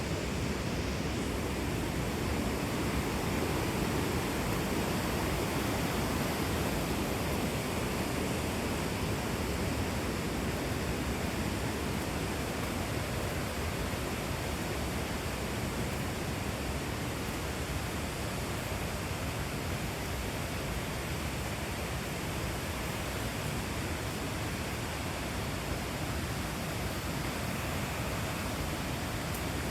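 Torc Waterfall's water falling in a steady, unbroken rush.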